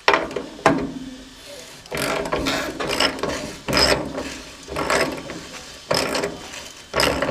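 Hand ratchet wrench being worked in repeated strokes, a rattling ratchet burst about once a second, after two sharp metallic clicks at the start.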